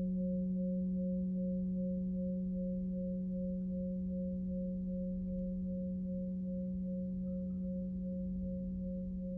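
Nepalese singing bowl, 23.5 cm across, ringing on a steady low F-sharp. A higher overtone above it pulses about three times a second as the sound slowly fades.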